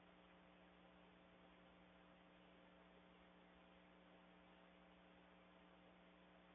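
Near silence: a faint, steady electrical hum with hiss, no distinct events.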